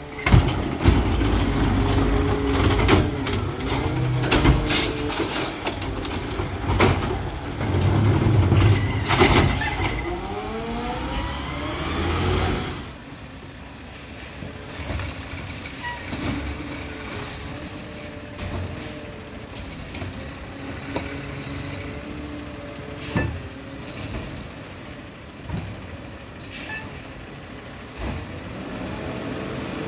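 Freightliner 108SD garbage truck with a McNeilus ZR automated side-loader body working: the engine revs and changes pitch under hydraulic load, with clanks and a hiss, then it drops suddenly about 13 seconds in to a steady idle with a few scattered knocks.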